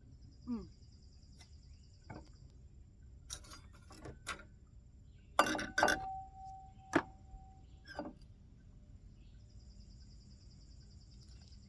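Camp-kitchen clatter: a series of knocks and clinks of dishes and utensils being handled, the loudest about halfway through, one of them leaving a short ringing tone. Insects trill in pulses at the start and again near the end.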